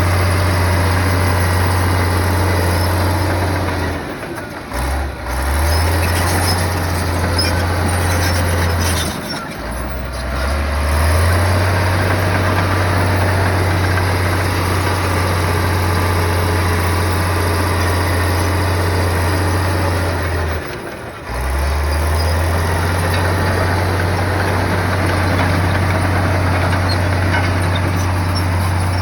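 Heavy bulldozer's diesel engine running under load. Its low drone dips briefly three times, around four, nine and twenty-one seconds in, and climbs back each time.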